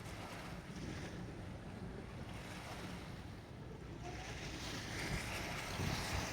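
Harbour waves splashing against the shore, with wind rumbling on the microphone; the splashing grows louder about two-thirds of the way in.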